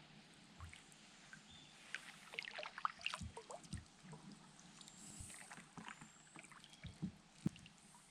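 Water lapping and trickling, with scattered small splashes and light knocks; the sharpest knock comes near the end.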